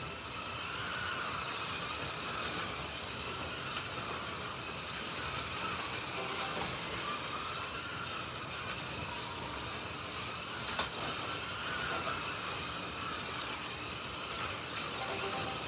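Several Slot.it slot cars racing on a track: their small electric motors whine, rising and falling in pitch as the cars speed up and brake through the corners, over a steady rumble of the cars running on the track. There is one sharp click about eleven seconds in.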